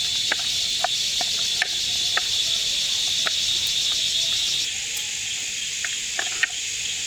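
Insects chirping steadily in a dense high-pitched chorus that drops away about four and a half seconds in, leaving a softer hiss, with short sharp ticks scattered throughout.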